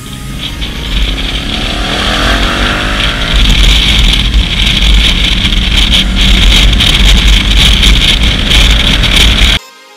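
KTM 990 Adventure's V-twin engine revving up as the motorcycle accelerates, under heavy wind buffeting on the camera microphone, which turns into a loud steady rush. The sound cuts off abruptly near the end.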